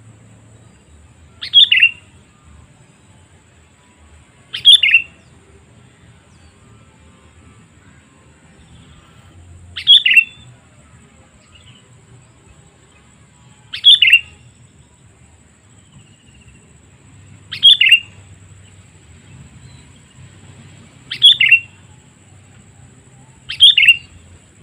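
Sooty-headed bulbul calling: seven short, sharp calls a few seconds apart, each a quick two-note phrase dropping in pitch, the call used to lure wild bulbuls. A faint steady high whine runs underneath.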